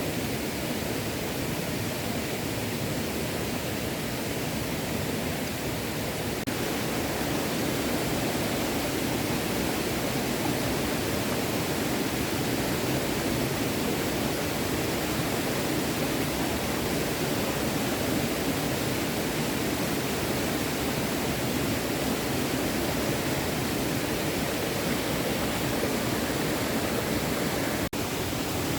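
Small stream running over rocks: a steady rush of flowing water, with a brief dropout near the end.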